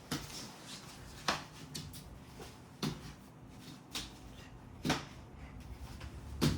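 A series of short, sharp knocks, about one every second or so, six in all.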